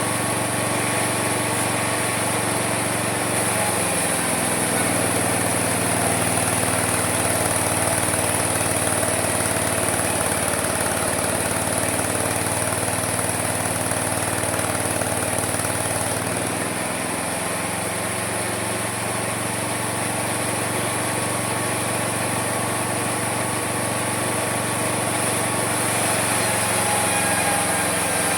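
Homemade mini sawmill running, its motor and saw blade making a steady drone with a high whine. About four seconds in the motor's pitch drops and stays low until about seventeen seconds in, then climbs back, as it slows under the load of a cut through the wood and recovers.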